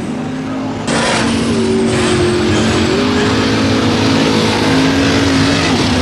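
Diesel mud truck engine running and revving, getting suddenly louder about a second in.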